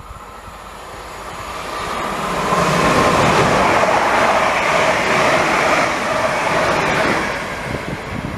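A train passing through the station at speed, its rumble and rail noise swelling to a loud peak in the middle and then fading away.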